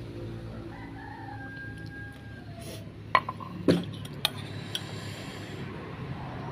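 A rooster crowing once, one long held call that falls slightly at its end, then a few sharp knocks about halfway through, which are the loudest sounds.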